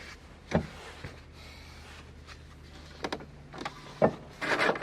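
A few sharp knocks and clicks, then a short scraping rustle near the end: hands and a screwdriver working a plastic light fitting on a car.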